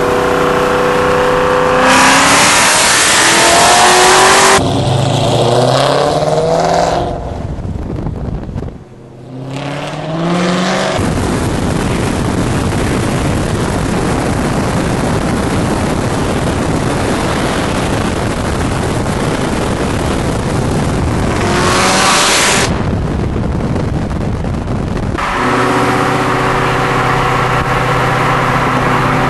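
Supercharged 4.6-litre V8 of a 2003 Ford Mustang Mach 1 with a loud exhaust, heard from a car driving alongside. Its pitch climbs several times through the gears in the first ten seconds, then gives way to a long stretch of steady rushing noise at speed, and it settles into a steady drone near the end.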